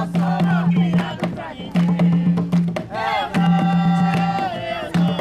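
Jongo music: hand drums beating a steady, dense rhythm with a deep ringing drum tone, while a singer's voice carries the sung verse and holds a long note a little past halfway.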